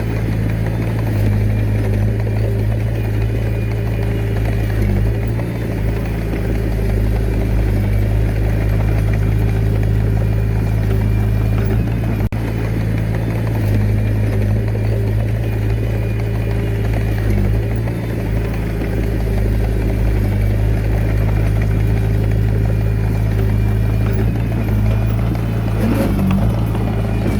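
Diesel engine of a Komatsu D21A mini bulldozer running steadily under work.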